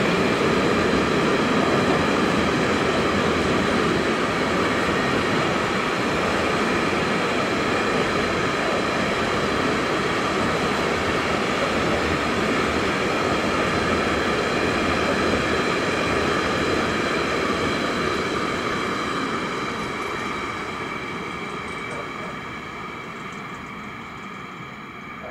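Freight train of tank wagons rolling past, a steady noise of wheels on rail with a few faint held tones, fading away over the last several seconds as the train recedes.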